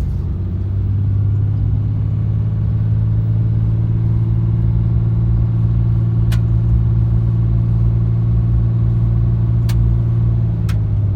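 2015 Ram 2500's 6.7-litre Cummins inline-six turbo-diesel running steadily under way: a deep, even drone. A few faint clicks sound in the second half.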